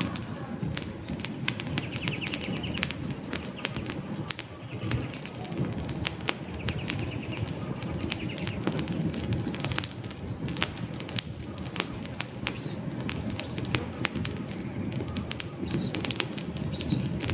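Wood campfire burning with a steady low rumble of flames and constant irregular crackles and pops from the logs. A few faint short high chirps come through in the second half.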